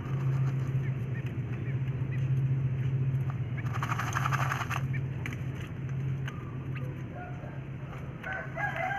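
Under a steady low hum, a brief rattling flurry of rapid wingbeats and scratching about four seconds in, typical of a quail dust-bathing, then a rooster crowing near the end.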